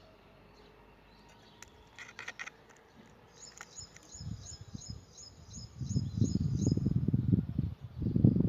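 Canary singing: a short stuttering trill about two seconds in, then a fast run of repeated high notes, about three a second, for several seconds. A low rumbling noise comes up in the second half and is the loudest sound.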